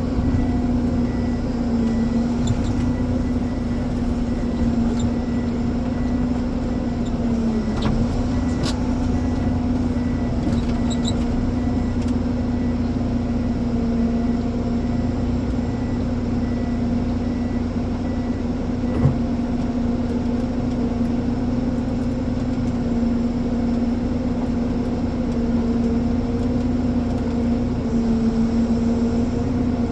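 Ponsse Elephant forwarder's diesel engine running steadily, its pitch dipping slightly now and then, with one short knock about two-thirds of the way through.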